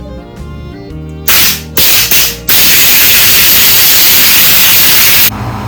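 Compressed air from an air-compressor blow gun blasting grime off a carburetor: two short blasts, then a steady loud blast of about three seconds that cuts off suddenly. Background music plays underneath at the start.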